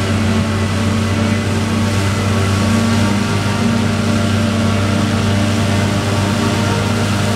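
Large diesel engine of heavy farm machinery running steadily at a constant speed, with a deep even hum and many overtones.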